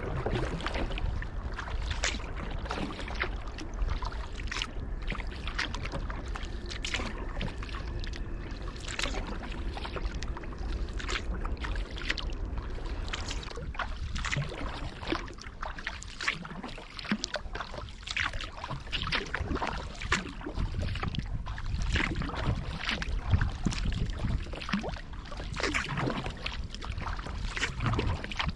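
Kayak paddle blades dipping and pulling through calm river water, one stroke after another, with repeated small splashes and drips.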